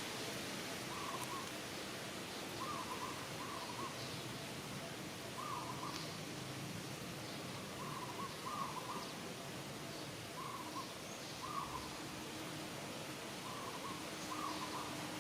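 Repeated short animal calls, often in pairs, coming every second or two over a steady background hiss.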